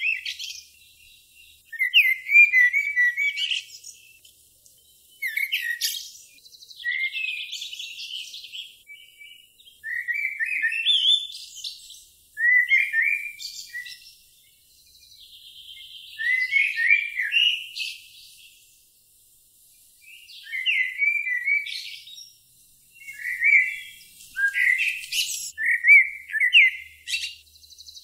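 A songbird singing short, chirping phrases over and over, one every two to three seconds, with a buzzy trill between some of them.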